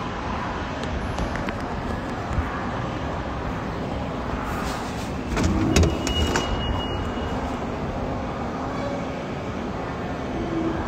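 Steady rumbling vehicle noise, with a louder cluster of clattering knocks and a brief high beep about halfway through.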